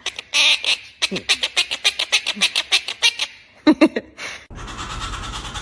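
Pet parrot squawking: a rapid run of short harsh calls, about six a second, then two short pitched calls, then a steady, continuous harsh screech over the last second.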